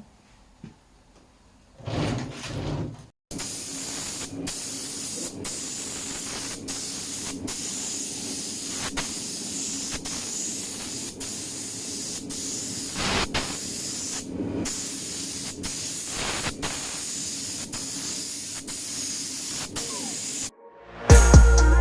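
Primer being sprayed onto the bare underside of a car shell: a steady spray hiss that starts about three seconds in and runs with many brief breaks, as the spray is stopped and started. Music comes in near the end.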